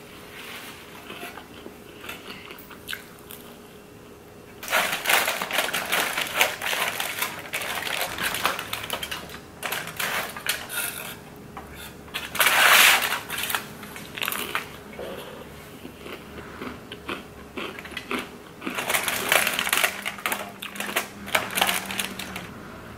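Crunching and chewing of a hot-Cheetos-topped pizza in several loud bursts, with the aluminium foil under the pizza crinkling as it is handled. The loudest burst comes about halfway through.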